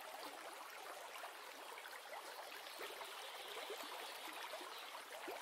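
Faint water splashing and lapping around a gharial feeding at the surface of a river, with many small splashes and trickles.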